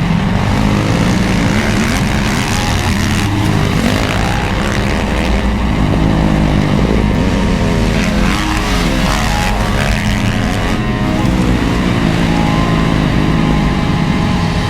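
Motocross motorcycle engines racing, revving up and down with the pitch rising and falling as bikes accelerate and pass.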